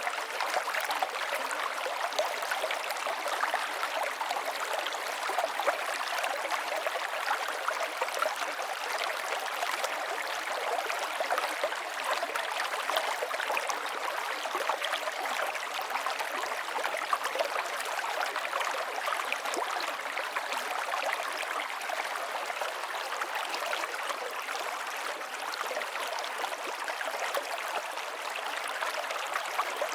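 A river flowing steadily, water rushing and splashing over rocks, with a fine constant patter and no pauses.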